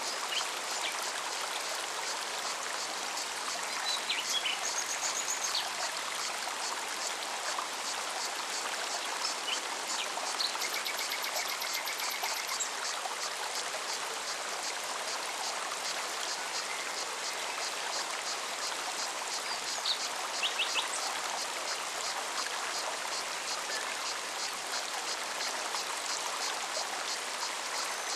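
Forest mountain stream running steadily, with a cicada calling in even, rapid pulses. A few birds call briefly, with a short trill about ten seconds in.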